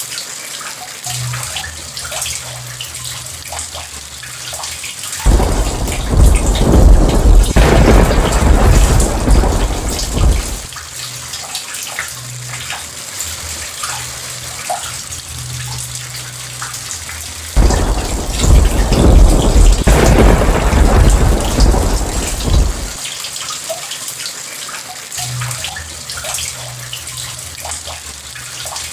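Steady rain, with two rolls of thunder that break in suddenly, about a fifth of the way in and again a little past the middle, each rumbling for about five seconds before dying back to the rain.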